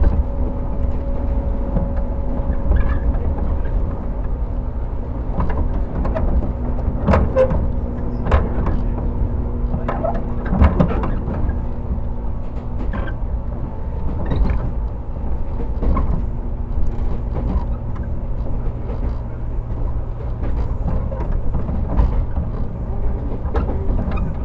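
Running sound inside a JR 115 series EMU motor car: the MT54 traction motors hum at a steady pitch over a constant low rumble. Sharp clacks from the wheels over rail joints come at irregular intervals, thickest about a third of the way in.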